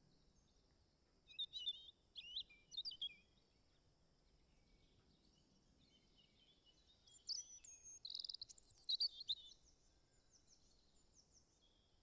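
Faint songbird calls: two bouts of quick, varied chirps, one about a second in and another from about seven to nine seconds in, then a short run of rapid falling notes.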